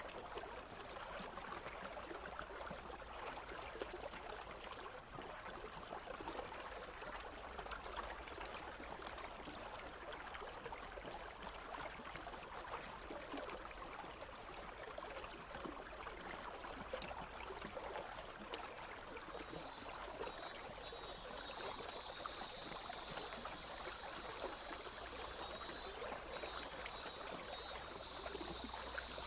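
A country stream babbling and trickling steadily. About two-thirds of the way in, cicadas start a high, pulsing buzz over the water.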